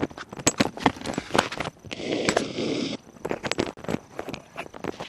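Irregular knocking, clicking and rubbing handling noise close to a loose clip-on microphone. A rushing noise lasting about a second comes in about two seconds in.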